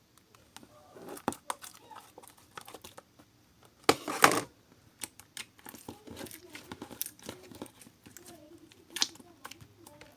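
Slime being kneaded and mixed by hand, sticky crackling and popping with irregular clicks, and a louder squelching burst about four seconds in.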